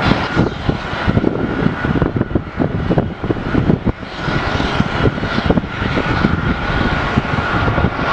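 Jet airliner engines of a departing Jetstar Boeing 787-8, heard as uneven, gusting low rumbling with a steady high whine over it.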